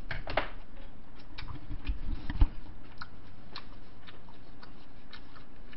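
A person chewing a mouthful of bibimbap close to the microphone: scattered small wet clicks and crunches, with a few low thumps and one sharp knock a little over two seconds in.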